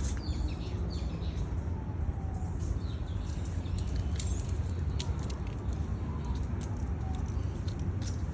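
Outdoor ambience: a steady low rumble of road traffic, with scattered short high bird chirps and small clicks over it.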